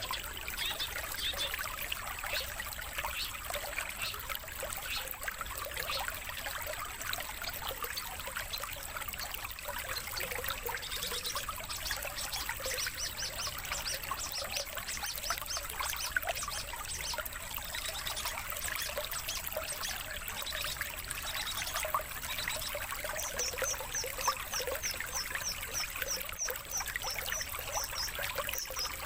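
Small songbirds chirping and singing over a steady trickle of running water. Near the end, one bird gives a fast, even series of high chirps.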